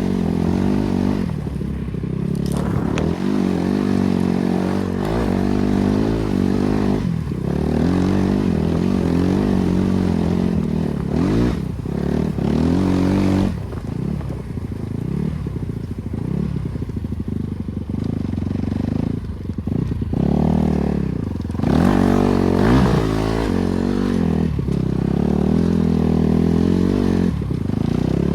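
BRZ MX8 motorcycle with its NB300 engine being ridden, the engine note rising and falling again and again as the throttle opens and closes through the gears.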